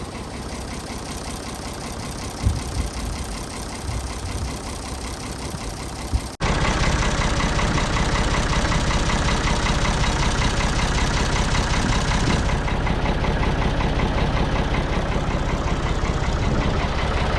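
Ford 555 backhoe loader's diesel engine running steadily. It grows suddenly louder about six seconds in and stays that way.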